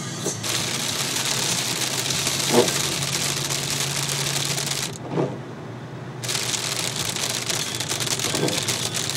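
Rain falling hard on a surface, a dense crackle of drops, with a few short knocks; the sound drops away for about a second just after halfway, then comes back.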